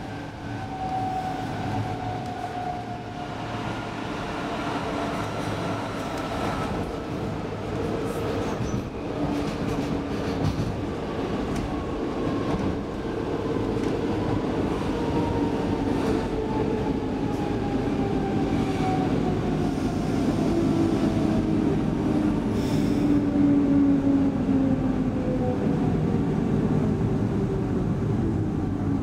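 Inside an X10 electric commuter train slowing into a station: the traction motors' whine falls steadily in pitch over the rumble of the wheels on the rails. Short clicks come as the wheels cross rail joints and switches.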